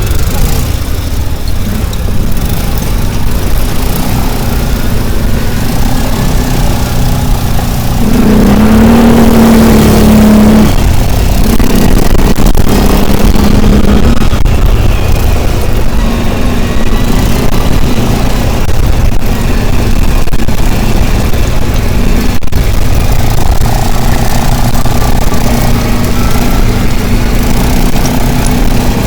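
A motor vehicle's engine running with a heavy, continuous low rumble. Its note rises and strengthens about eight seconds in, then settles.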